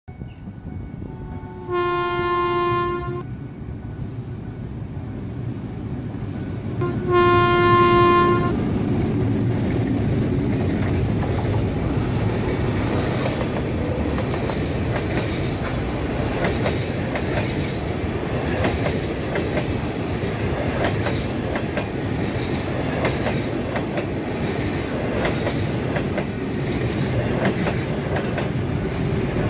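Locomotive horn of a green Chinese passenger train sounding twice, two steady chord blasts about five seconds apart, the second louder. Then the passenger carriages roll past with a continuous rumble and a rhythmic clickety-clack of wheels on the rails.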